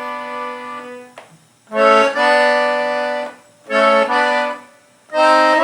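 Piano accordion played on its treble keyboard, sounding two-note chords one after another: a held chord dies away about a second in, then a chord of two notes pressed together sounds near 2 s, a short one near 4 s and another held one near the end, with brief gaps between them.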